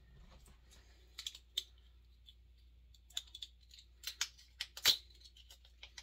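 A thin strip of tin-can sheet metal being rolled and worked by hand: irregular sharp clicks and crinkles, loudest about five seconds in.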